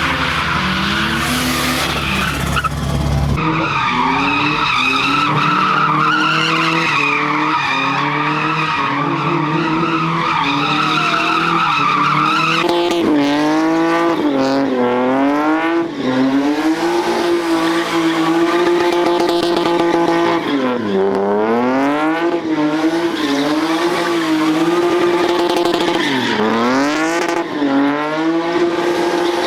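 A car engine revving hard, its pitch swinging up and down again and again, while the rear tyres spin and squeal against the pavement.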